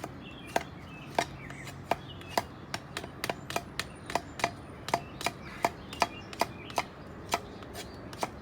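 Timber Wolf TW-469 Damascus Bowie knife shaving a wooden stick in quick strokes. It makes a run of about twenty short, sharp cuts, roughly three a second.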